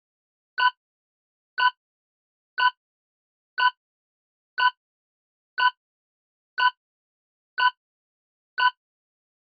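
Quiz countdown-timer tick sound effect: short, identical clock-like ticks, one a second, nine times.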